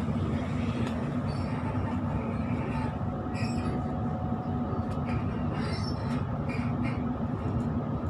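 Sydney suburban electric passenger train running at speed, heard from inside the carriage: a steady low rumble of wheels and running gear. From about three seconds in, short high-pitched wheel squeals come and go several times.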